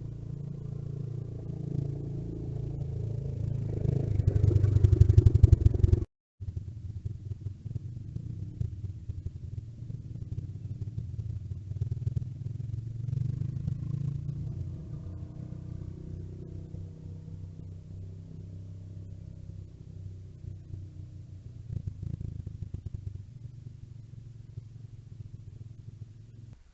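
Small off-road vehicle engines running: the engine sound swells to its loudest about five seconds in, breaks off abruptly just after six seconds, then continues more quietly.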